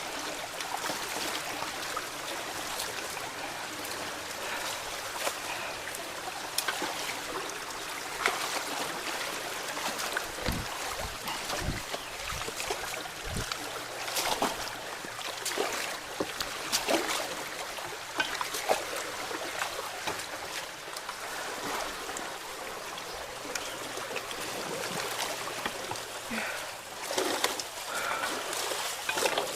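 Floodwater running through a clogged culvert, a steady rush with frequent splashes and knocks. A few dull thumps come about a third of the way in.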